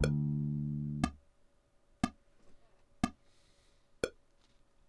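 Electric bass guitar plucking a single note that rings for about a second, over a metronome clicking steadily about once a second.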